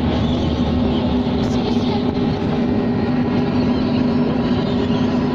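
Boat engine running with a steady, unchanging hum and the wash of the hull moving through water.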